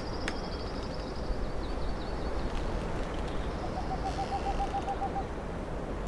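Wild birds calling over a steady low rumble: a high, fast trill that fades in the first second or so, then, past the middle, a low, rapid run of about a dozen evenly spaced hooting notes lasting about a second and a half.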